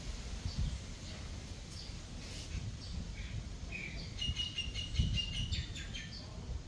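A small bird chirping: faint scattered chirps, then a quick run of rapid high chirps about four seconds in, over a low uneven rumble.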